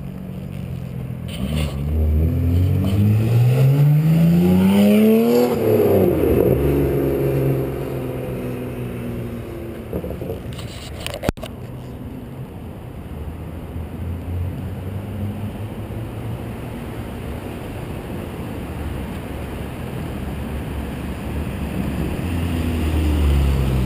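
BMW 135i's turbocharged inline-six idling through a prototype 3.5-inch stainless exhaust with downpipes and no mufflers. It is revved once: the pitch climbs from about a second and a half in, peaks around five and a half seconds, and drops back to idle by about eight seconds. There is a single sharp click about eleven seconds in.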